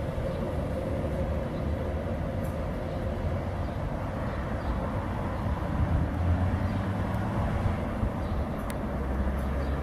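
DB Class 111 electric locomotive hauling passenger coaches past on the line: a steady rumble of wheels on rail with a low hum, swelling slightly about two thirds of the way through.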